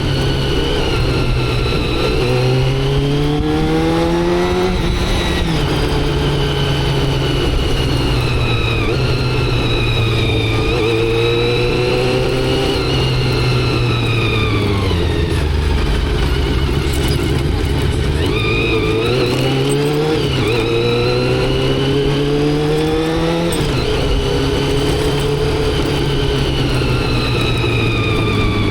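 Motorcycle engine heard from the rider's seat, pulling through the gears. Its pitch climbs, then drops suddenly at each upshift (about five seconds in, and again near three-quarters of the way). Around the middle it falls slowly and runs low for a few seconds as the bike slows, over a constant rush of wind and road noise.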